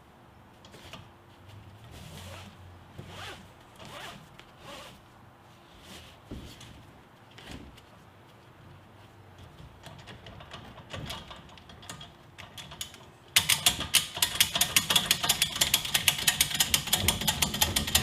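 Nylon strap webbing rubbing and sliding as it is fed and pulled through the hand truck's strap mechanism. About thirteen seconds in, this gives way to rapid, loud clicking from the ratchet as the crank is turned to take up the strap and tighten it.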